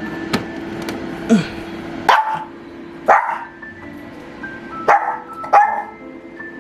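A Maltese dog barking in short single barks, about six in all, over background music with held notes.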